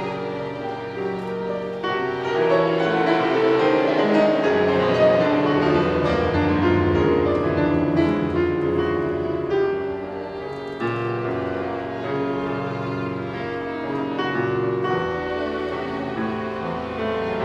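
Piano with a string orchestra playing classical concert music, swelling louder a couple of seconds in.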